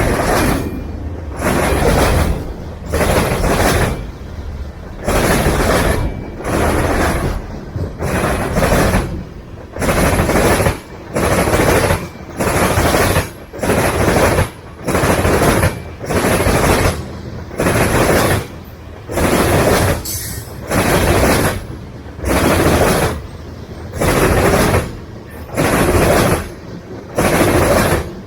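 Freight train cars rolling past, their wheels clattering over the rail joints in a steady rhythm of about one burst a second.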